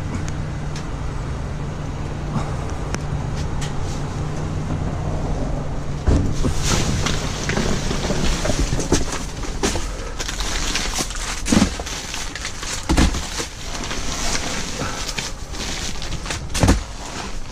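A steady low engine hum for about the first six seconds, then rustling and clattering as items are rummaged through in a dumpster, with several dull thumps.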